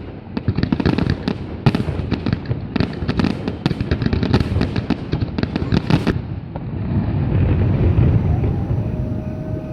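Fireworks display going off: a rapid string of sharp cracks and bangs for about six seconds, then a continuous low rumble of bursts that swells near the end.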